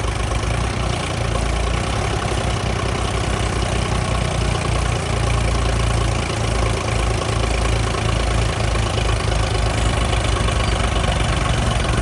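Tractor diesel engine running steadily, with a pulsing low rumble.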